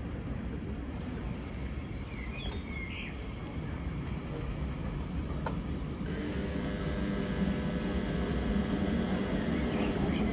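Electric multiple-unit passenger train approaching across the station throat. A low rumble of wheels on rail grows louder, and a steady whine from the electric traction equipment joins it about six seconds in. Birds chirp briefly a couple of seconds in and again near the end.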